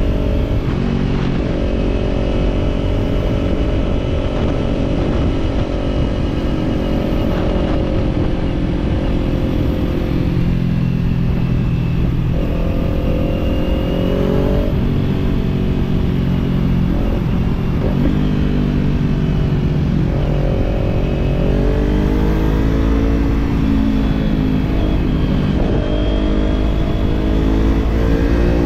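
Kawasaki parallel-twin motorcycle engine with an aftermarket slip-on exhaust, running under way. Its pitch sinks and steps up again several times with throttle and gear changes, and climbs steadily near the end.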